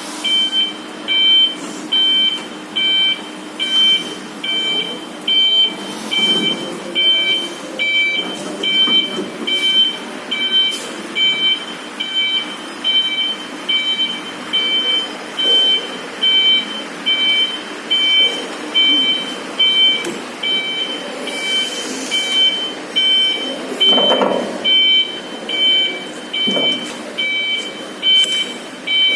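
Electric reach truck forklift's warning beeper sounding steadily, about one beep a second, over the hum of the truck's electric motors.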